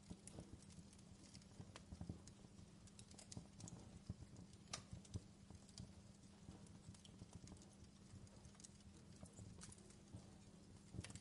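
Faint crackling of a wood fire: irregular sharp pops and snaps over a soft steady rumble.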